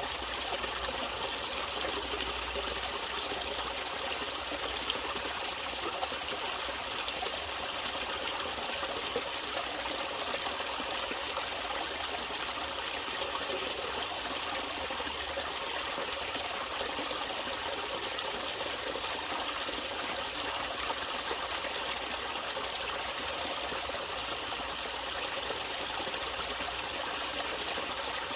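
Water of a natural stream trickling and splashing over rocks, a steady rushing with a bright hiss.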